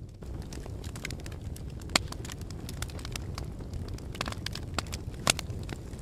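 Fire crackling steadily over a low rumble, with many small crackles and two louder sharp pops, about two seconds in and a little after five seconds in.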